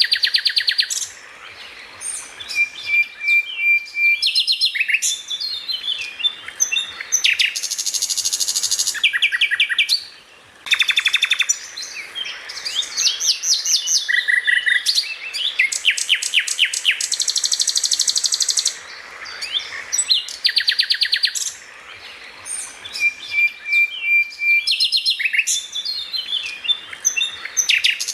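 Greater green leafbird (cucak ijo) singing a loud, fast, varied song: rapid rattling trills and volleys of sharp notes, buzzy stretches and short held whistles, with a brief pause about ten seconds in.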